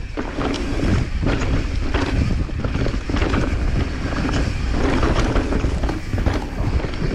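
Wind rushing over an action camera's microphone during a fast mountain-bike descent. Through it come tyres rolling over dirt and rock and the bike rattling over bumps, heard as many short knocks.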